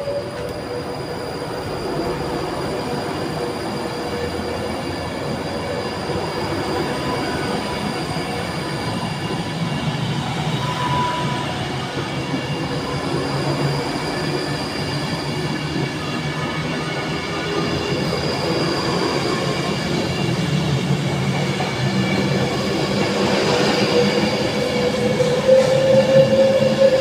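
Class 390 Pendolino electric train pulling away and accelerating past, its wheels rumbling on the rails under a whine of several steady pitches. The sound grows louder throughout, and the main whine rises in pitch near the end as the train picks up speed.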